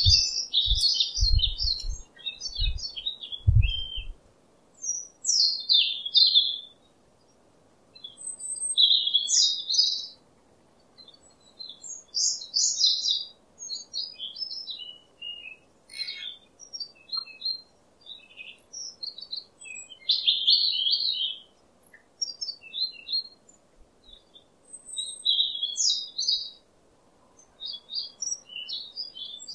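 Small birds chirping and twittering in short, quick bursts, with gaps of a second or two between them. A few low thumps sound in the first few seconds.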